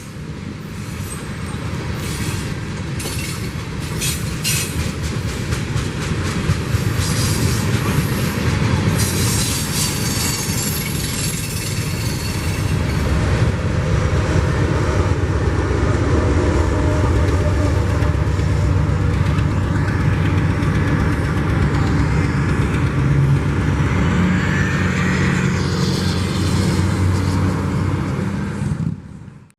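Freight train rolling past at trackside: a steady rumble of cars with wheels clattering on the rails. It grows louder over the first dozen seconds and cuts off suddenly near the end.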